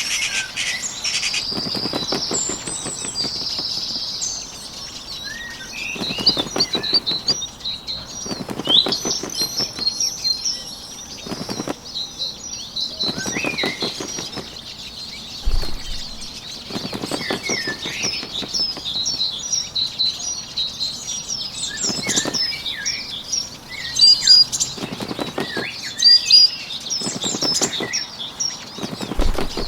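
A small bird's wings fluttering in short spells, about ten times, every two to three seconds, over continuous chirping birdsong.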